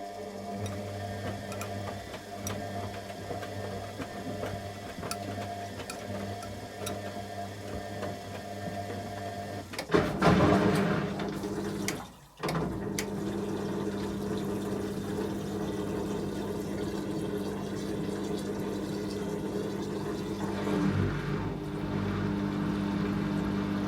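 Candy Aquamatic 100F washing machine with its drain pump humming steadily, then moving into its 600 rpm intermediate spin about ten seconds in. A loud rush of water comes with the change, there is a brief cut-out, and then the machine runs on steadily.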